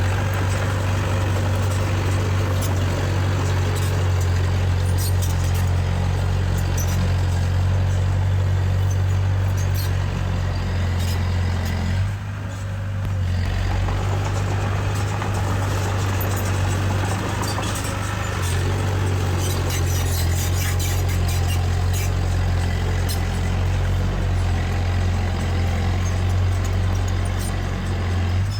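Heavy-equipment diesel engine running steadily with a deep hum, easing off briefly about twelve seconds in before picking up again, with scattered metallic clicks and clanks over it.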